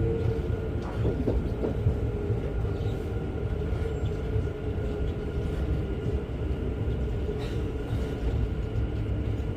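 Class 710 Aventra electric multiple unit heard from inside the carriage: a steady hum with a held mid-pitched tone over a low rumble, without any rising whine.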